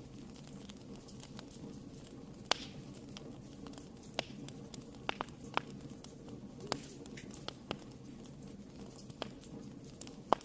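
Wood fire burning in a fireplace: a low steady rumble of flames with scattered sharp crackles and pops, the loudest about two and a half seconds in and just before the end.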